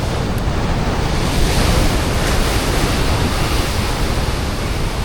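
Heavy ocean swell surging and washing over a rock ledge, a steady loud rush with deep rumble, swelling a little about a second and a half in, with wind buffeting the microphone.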